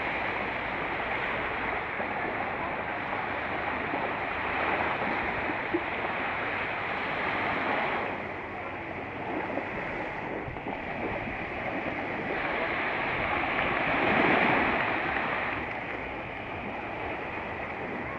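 Sea surf washing onto the shore: a steady hiss of breaking waves that swells and eases, loudest a few seconds before the end.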